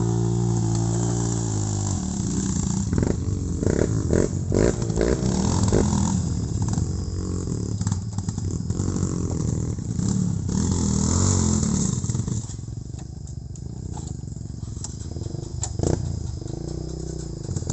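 Off-road trail motorcycle engine revving up and down, with sharp knocks and clatter in between; the engine sound drops off noticeably about three-quarters of the way through.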